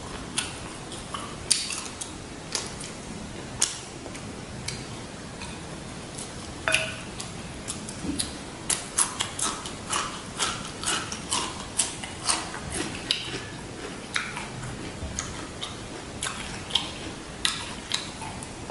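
Close-miked chewing and mouth sounds of someone eating a fresh rice-paper roll with shrimp and pork: irregular wet clicks and smacks, coming thickest in the middle stretch.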